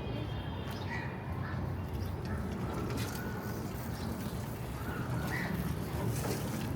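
City street ambience: a steady low rumble with a few short bird chirps and faint voices now and then.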